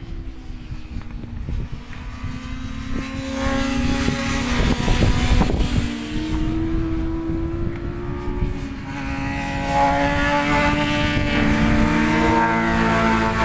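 Racing motorcycles on a circuit, engines passing with their pitch falling and rising, loudest about four to six seconds in, with another bike building from about nine seconds. Wind buffets the microphone throughout.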